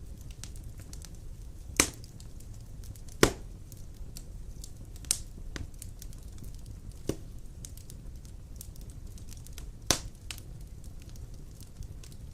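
Wood fire burning in a fireplace: a steady low rumble of flames with scattered small crackles and five louder sharp pops.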